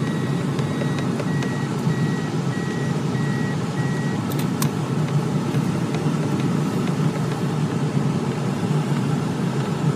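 Tractor engine running steadily at low revs. For the first four seconds a reversing alarm beeps about twice a second, then stops; two sharp clicks follow soon after.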